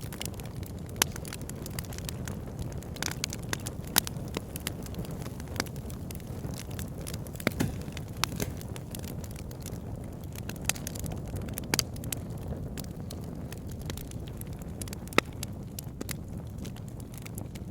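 Wood fire burning in a fireplace: a steady low rush of flame with irregular sharp crackles and pops from the logs, a few pops louder than the rest.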